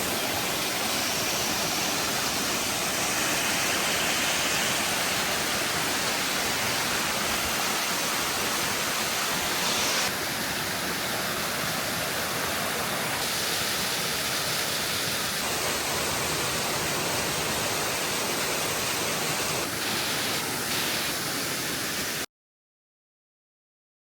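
Waterfall rushing, a steady loud roar of falling water that shifts abruptly in tone a few times and then cuts off to silence near the end.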